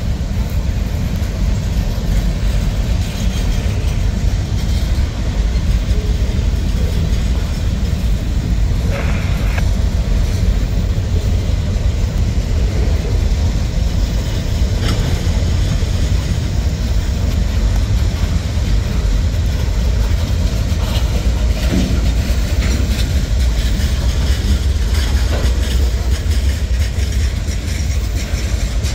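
Freight train's gondola and tank cars rolling past: a steady, loud low rumble of steel wheels on rail, with scattered clicks and knocks as wheels pass over rail joints.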